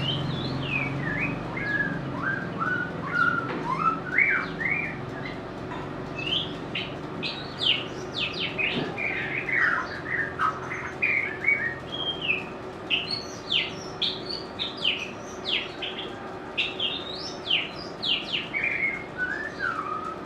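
White-rumped shama singing: a continuous run of clear, varied whistled phrases. Some glide down and back up, and others are quick, sharp high notes.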